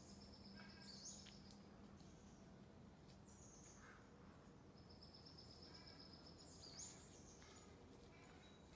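Faint songbird singing a high, rapid trill that ends in a quick upward flourish, twice, about five seconds apart, with a few short chirps between.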